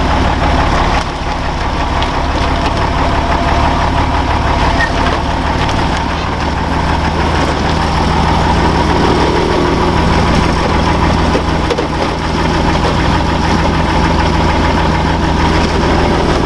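Off-road vehicle's engine running steadily at low revs, with a change in its note about eight seconds in.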